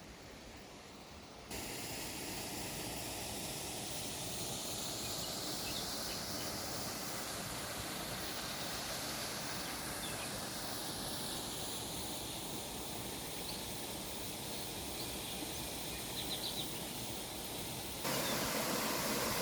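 Steady rush of a waterfall's falling water, with a few faint high chirps near the end. The level steps up suddenly about a second and a half in and again near the end.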